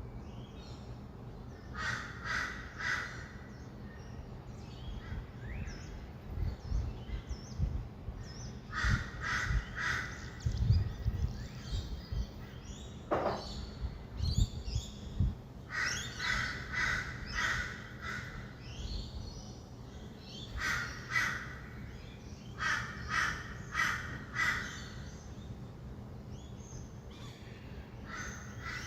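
Harsh bird calls in short series of three or four, repeated every few seconds, over a steady low rumble of distant traffic.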